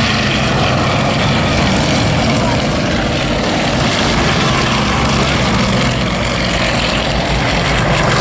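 Aircraft engines running loudly and steadily, with a low hum under a wide rushing noise.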